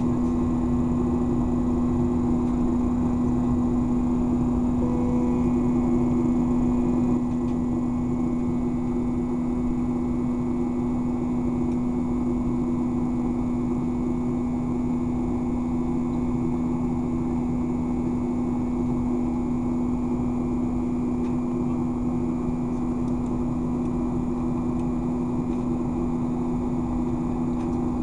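Boeing 737-800's CFM56-7 turbofan engines heard from inside the cabin during the climb. A steady drone carries a strong low hum with several steady tones above it: the buzzsaw noise of the fan blade tips running supersonic at climb thrust. The level drops slightly about seven seconds in.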